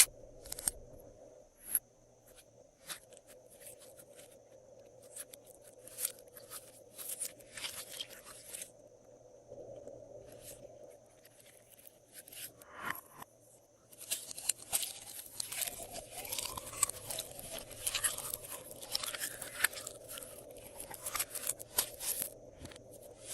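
Slime being mixed and squished by hand, with many small crackles and clicks. They come in scattered bursts at first and turn into a steady crackle a little past halfway.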